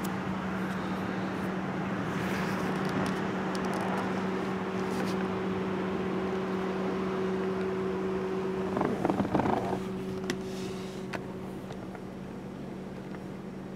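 Car engine idling, a steady low hum, with a brief clatter about nine seconds in, after which the sound is a little quieter.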